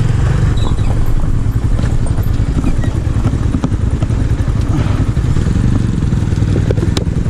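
250 cc scrambler motorcycle engine running steadily while riding.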